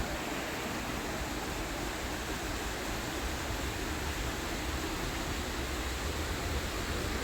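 Steady rush of flowing water, with a low rumble underneath and a single sharp click right at the start.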